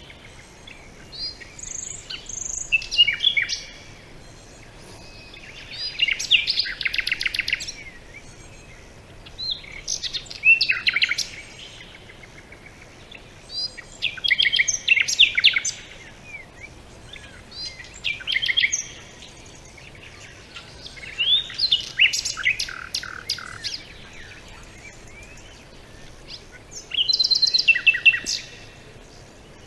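A songbird singing, giving seven short phrases of rapid high notes and trills about every four seconds, with faint background hiss in the pauses.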